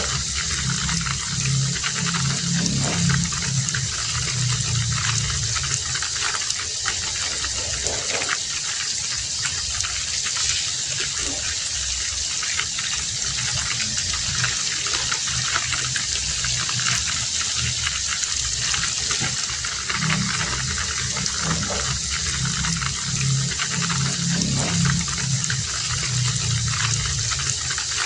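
Heavy rain falling steadily. A low rumble swells during the first few seconds and again about twenty seconds in.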